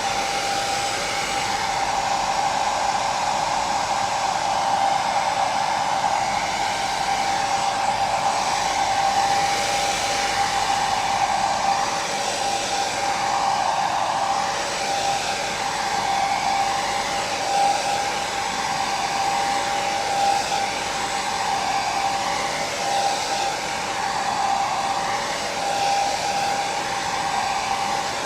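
Hair dryer running steadily, a continuous rush of air with a steady whine from its motor and fan, wavering only slightly in level.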